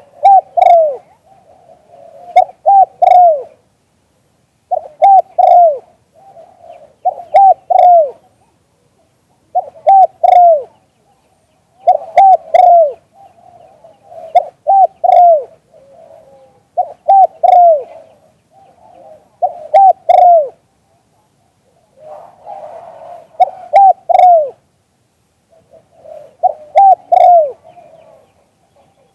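Zebra dove cooing repeatedly: short phrases of a few falling coo notes about every two seconds, with a softer rolling coo between them.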